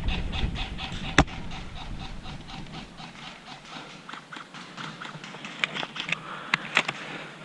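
Wind buffeting the microphone, easing after a few seconds. About a second in comes a single sharp crack from a bolt-action spring airsoft sniper rifle firing. Near the end there is a quick run of sharp clicks.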